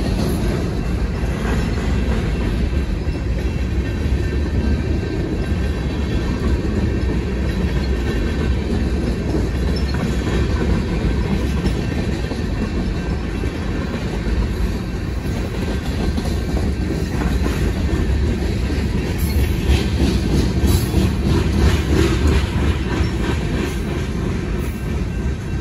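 Freight cars of a BNSF manifest train rolling through a grade crossing: a steady rumble of steel wheels on the rails with clickety-clack over the joints, a little louder near the end.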